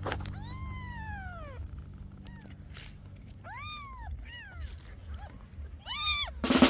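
Kitten meowing in high, arching cries. There is one long drawn-out meow near the start, a couple of shorter ones midway, and a loud run of quick meows near the end.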